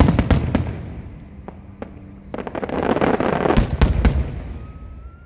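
Fireworks display: a quick run of sharp bangs, then a dense crackling that builds into another cluster of loud bangs about three and a half seconds in and dies away toward the end.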